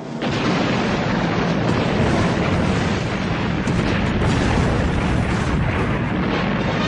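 A loud explosion sound effect: a dense, rumbling roar that starts suddenly and holds steady for about seven seconds.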